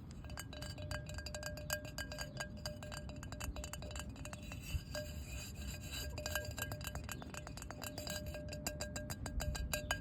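Rapid, light tapping on a small hard object that rings with a clear tone after each tap, many taps a second, coming in uneven runs.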